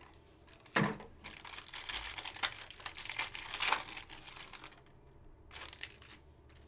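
Foil wrapper of a trading-card pack being torn open and crinkled, a dense crackle for about three and a half seconds, then a brief rustle near the end.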